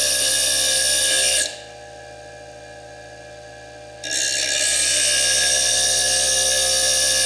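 Foredom bench lathe's small slitting disc grinding into fire agate: a loud, high-pitched grinding whine. About one and a half seconds in it drops to a much quieter steady running, the disc out of the cut, and about four seconds in the loud grinding starts again.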